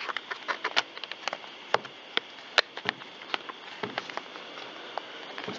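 Irregular light clicks and taps of plastic chainsaw parts being handled and fitted together, as the saw's top shield is set in place.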